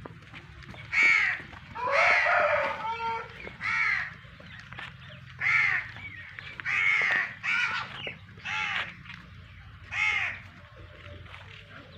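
Crows cawing: about eight short, harsh calls spaced irregularly, one of them longer, over a low steady background hum.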